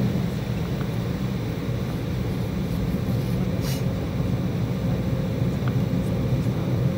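Steady cabin rumble of an Embraer E190 airliner, its two GE CF34-10E turbofan engines running, heard from inside the passenger cabin. A short high click sounds a little past halfway.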